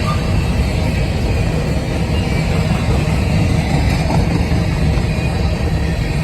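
A long freight train's cars rolling past at close range: a steady, loud low rumble of steel wheels on rail.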